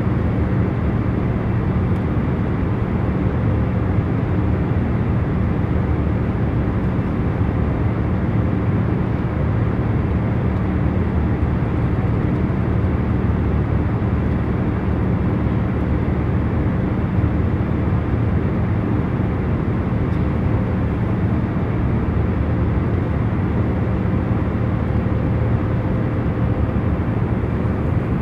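Steady jet airliner cabin noise in cruise: a deep, even rushing hum with a faint steady drone, unchanging throughout.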